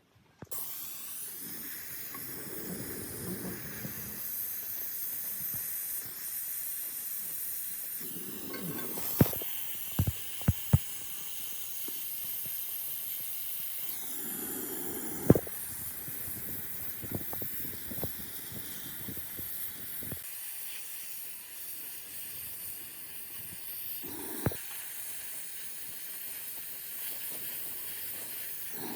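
A steady hiss, with a handful of sharp knocks: three or four close together about a third of the way in, one near the middle and one later.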